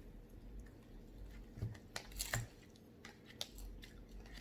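Close-miked eating: quiet chewing with a few short crisp clicks and crackles, the loudest cluster about halfway through and one more sharp click later.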